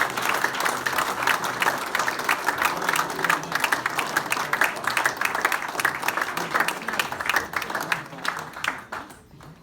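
A roomful of people applauding and clapping, with a few voices mixed in, the applause thinning and dying away near the end.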